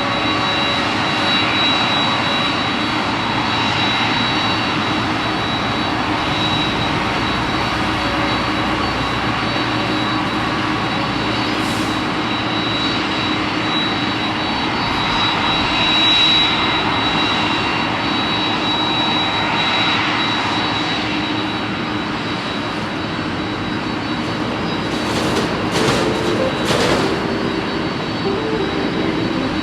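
Jet airliner engines running steadily, with a high turbine whine over the noise of the engines. A few short clicks come near the end.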